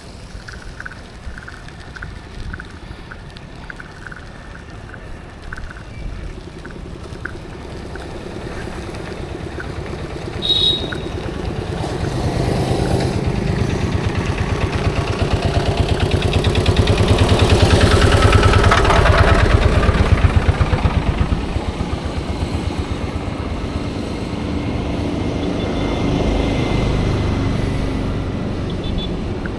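A bus's diesel engine runs close by with a fast pulsing beat, growing louder to a peak just past the middle and then easing off as it passes. A short high beep sounds about a third of the way in, and light regular ticking is heard in the first few seconds.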